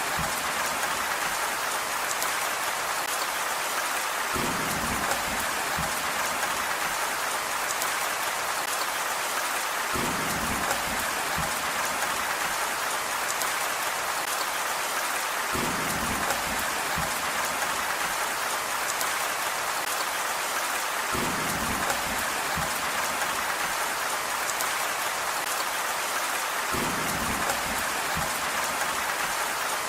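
Steady rain falling in an even hiss, with a short low rumble coming back about every five to six seconds.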